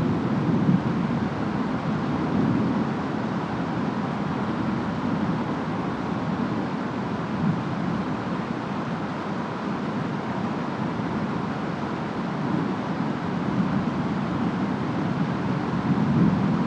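Steady rainstorm ambience: a constant hiss of rain and wind over a deep, low rumble, which swells near the start and again near the end.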